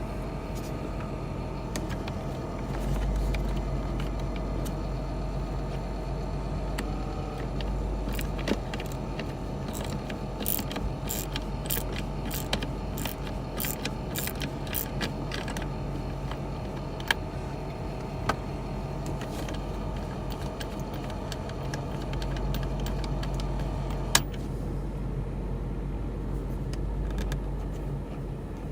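Steady hum of an idling car heard from inside the cabin, with runs of socket-wrench clicking and a few sharp metal clicks as the dashboard panel bolts are worked loose with a 7 mm socket. The clicking comes in a dense run about a third of the way in, then as single clicks.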